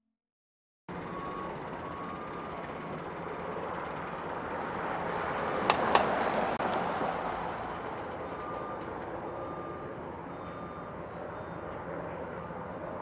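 Outdoor traffic and construction-site noise: a steady rush that swells around the middle as a vehicle passes, with a couple of sharp clicks at its peak, then eases off. Faint short beeps repeat in the background, like a reversing alarm.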